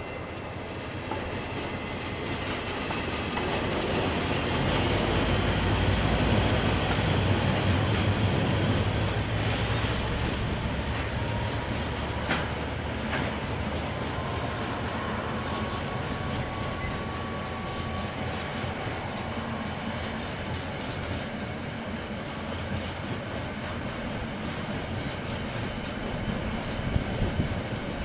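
KiwiRail train passing: a diesel locomotive's low engine rumble builds and is loudest about five to nine seconds in. It then gives way to a steady run of wagons rolling by, with clacking wheels over the rail joints and faint wheel squeal.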